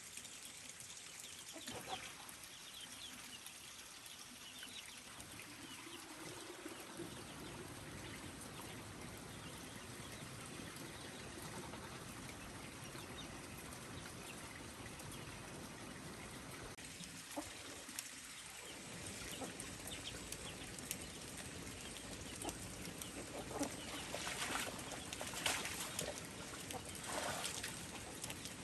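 Domestic chickens clucking and calling over a steady background hiss, with the calls coming more often and louder near the end.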